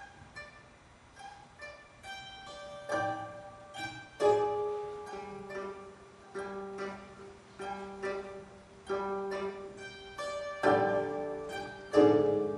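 Gayageum ensemble playing: separate plucked notes that ring and fade, the texture thickening and growing louder in the last two seconds.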